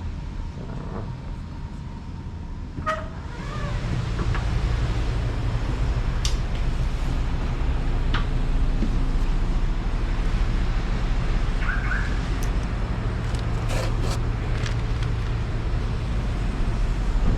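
Dodge RAM 1500's 5.7 HEMI V8 idling with a steady low rumble that grows louder a few seconds in, with a few light clicks and knocks over it.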